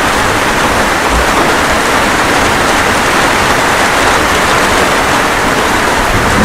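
Steady rainfall, an even dense hiss with no thunder.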